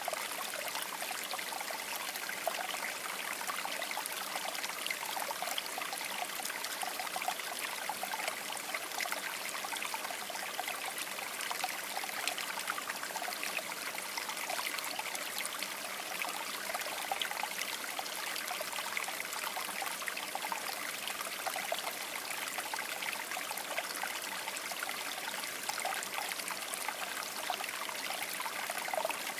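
Shallow river water babbling and splashing steadily over stones, many small bubbling trickles on an even rushing wash.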